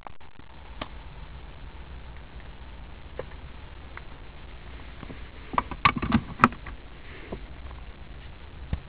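Steady low rumble inside a car cabin, with a quick cluster of sharp clicks and knocks a little past halfway.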